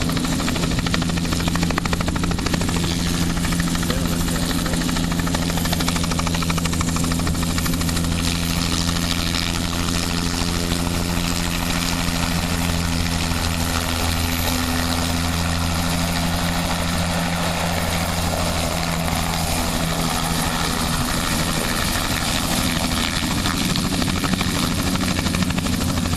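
Aircraft running steadily at close range, a continuous loud hum with several steady low tones under a broad rushing noise.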